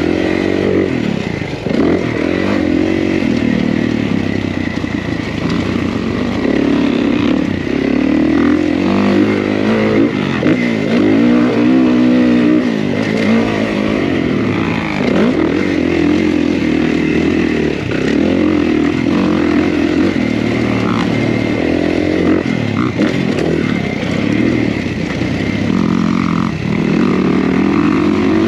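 Kawasaki KX450 motocross bike's single-cylinder four-stroke engine being ridden hard, revving up and dropping back over and over at loud, steady volume.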